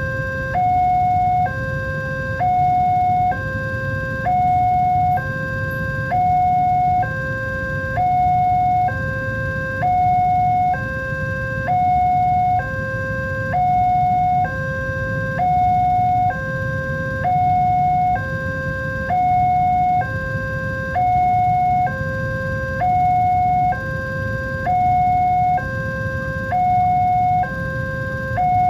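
Level-crossing electronic warning alarm sounding a steady two-tone cycle, alternating a lower and a louder higher tone, each held about a second, signalling that a train is approaching and the barriers are down. A low steady rumble runs beneath it.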